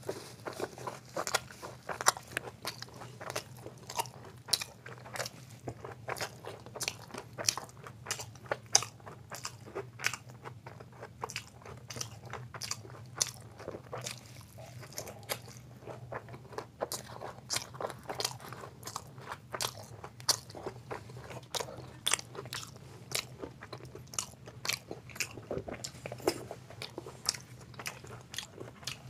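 Close-up eating sounds: a person biting and chewing fried food, many short crunches and clicks, several a second.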